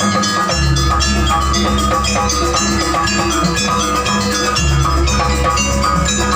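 Gamelan music accompanying a Janger dance: bronze metallophones striking fast runs of short ringing notes over drums, with a deep bass coming in about half a second in.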